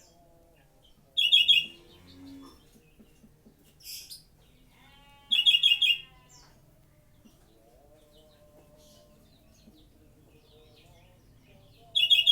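A songbird giving short, harsh, buzzy chattering calls three times, several seconds apart, with a brief high whistle between the first two.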